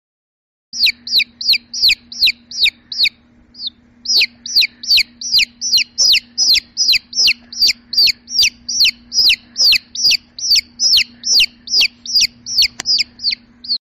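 Baby chick peeping: a quick run of high, downward-sliding peeps, about three a second, with a short break about three seconds in.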